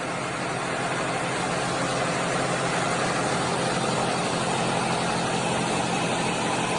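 A vehicle engine running steadily, with an even, unchanging noise.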